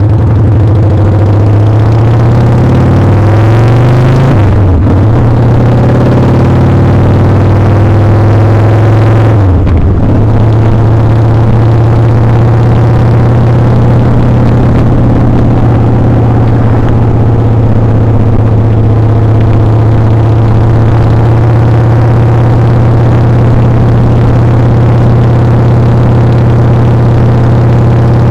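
Motorcycle engine running under way. The engine note climbs, breaks off briefly twice, about five and ten seconds in, then holds a steady tone.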